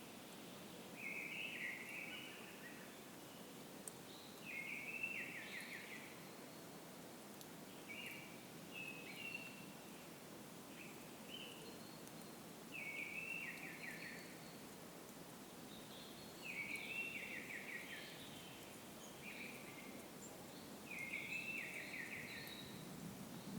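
A songbird singing short, trilled, falling phrases about a second long, repeated every three to four seconds, over a steady low background rumble.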